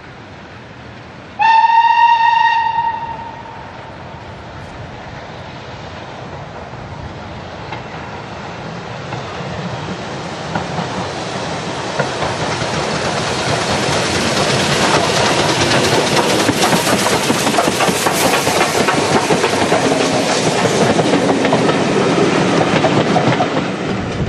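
Steam locomotive whistle sounding once for about a second and a half. Then a train approaches and runs past, its noise and rail clatter building to a peak and easing a little near the end.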